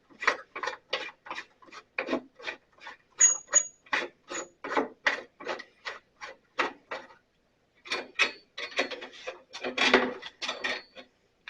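Blade-tension knob of a Sears Craftsman 12-inch bandsaw being turned to slacken the blade, its threaded adjuster rasping in short strokes about three times a second. The strokes pause briefly past the middle, then resume more unevenly.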